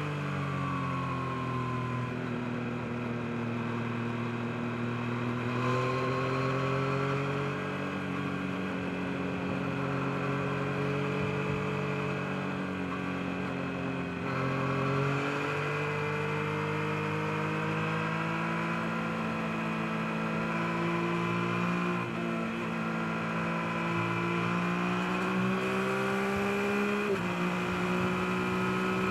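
Yamaha MT-09's three-cylinder engine running while riding at moderate revs, its pitch easing down and climbing slowly as the throttle changes, with a quick drop in pitch at a gear change near the end.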